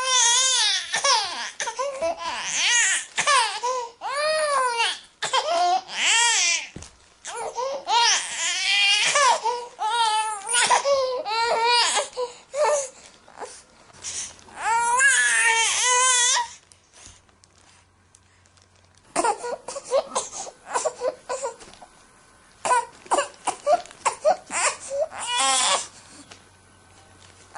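Infant crying: loud wailing cries that waver up and down in pitch, one after another with short breaths between. After a lull about two-thirds of the way through come shorter, choppier cries over a faint steady hum.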